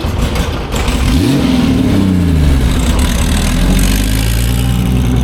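Historic racing car engine at full throttle on track: its note rises sharply about a second in, then falls away over the next second, and settles into a steadier, lower drone.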